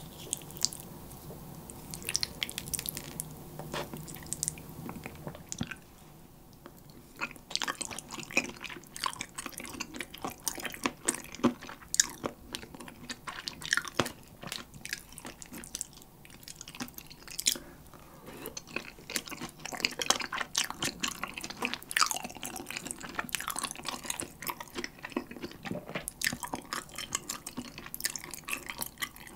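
Close-miked chewing of spicy Korean chicken feet (dakbal), with many sharp mouth clicks. It is sparse for the first few seconds, then busy and steady from about seven seconds in.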